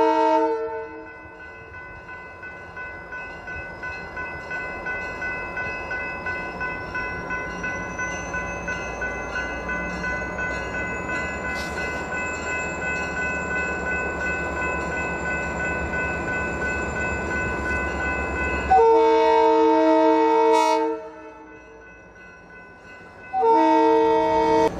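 Diesel freight locomotive's multi-chime horn sounding in long blasts, one ending just after the start, another about 19 seconds in and a third starting near the end. Between the blasts the approaching train grows steadily louder, with a regular clatter about twice a second from the wheels running over the track joints.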